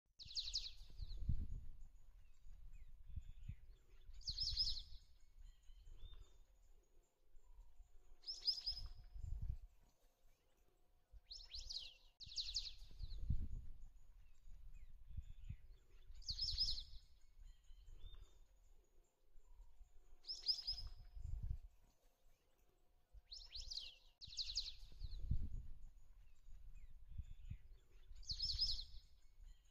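A wild bird repeating a short, high call of a few quick notes about every four seconds, sometimes twice in quick succession, over an irregular low rumble.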